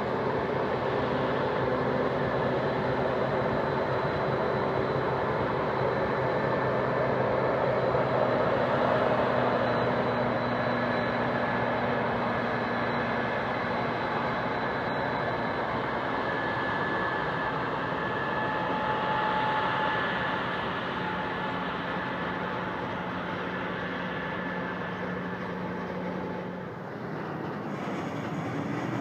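Union Pacific diesel-electric freight locomotives passing with a steady engine drone, then the steady rumble of double-stack container cars rolling by on the rails. The sound dips and changes briefly near the end.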